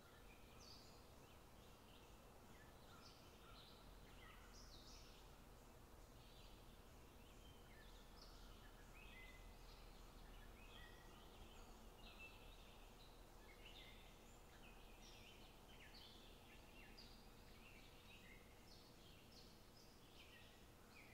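Near silence, with faint chirping of birds throughout: many short, high calls a second.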